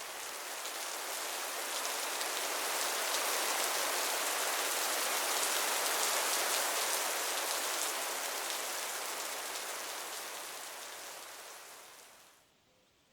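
Heavy rain shower pouring down, a dense hiss of many drops that swells over the first few seconds and fades away near the end.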